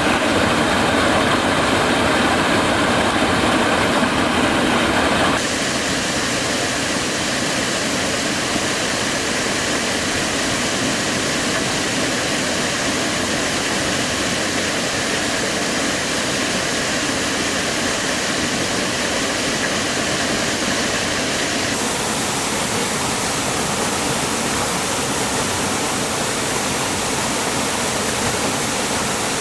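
Steady rush of flowing water from a highland waterfall. It is louder for the first five seconds, then its tone shifts abruptly, and shifts again about twenty-two seconds in.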